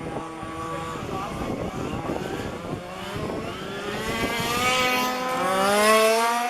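Small two-stroke petrol engine of a 1:5-scale RC car accelerating, its pitch climbing steadily and growing louder over the last few seconds as it comes close.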